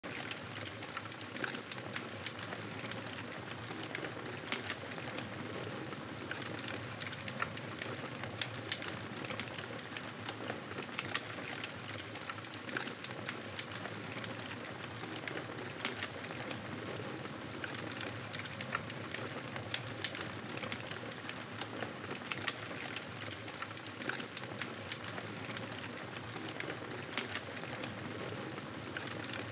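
Campfire crackling: a steady hiss of burning wood with frequent small pops and snaps at irregular times.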